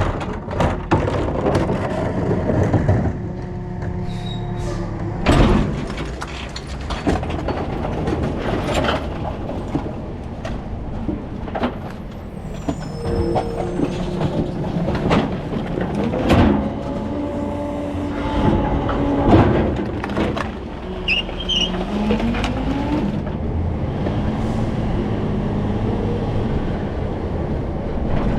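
Rear-loader recycling truck working: the engine runs under many sharp clanks and knocks, with short whining tones and a brief rising whine a little past two-thirds of the way in.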